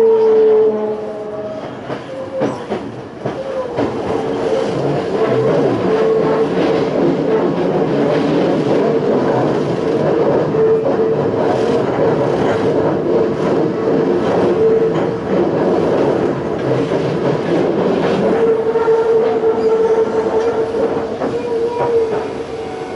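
Toei 5300 series train's GTO inverter and traction motors whining, heard from inside the car. The whine falls in pitch during the first second or so, as the train slows, then holds a steady tone. Wheel rumble and clicking rail joints run beneath it.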